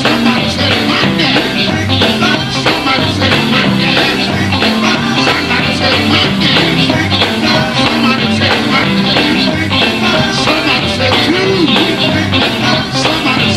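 Live gospel band playing an upbeat number, with a steady bass line and drum beat.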